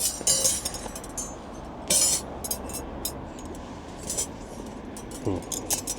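Metal parts of a compact folding fire pit clinking and knocking together as they are handled, with a few sharp clinks, two of them briefly ringing near the start and about two seconds in.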